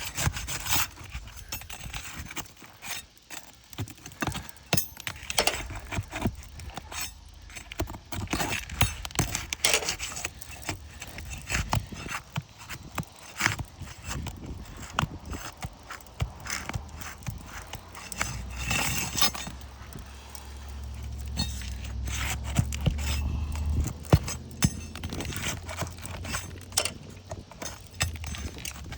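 Pry bar and hammer working under asphalt roof shingles: irregular knocks, clicks and scraping as the shingle is worked loose. A low rumble joins from about twenty seconds in.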